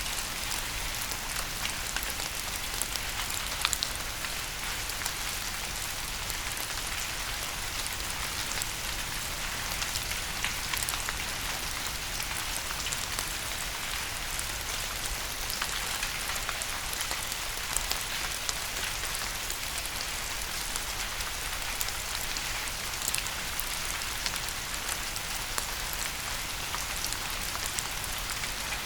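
Steady rain falling: an even hiss with many small, sharp drop taps scattered through it.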